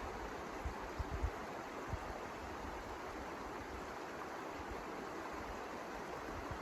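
Steady rushing wind with low gusts buffeting the microphone, and a few brief low thumps between one and two seconds in.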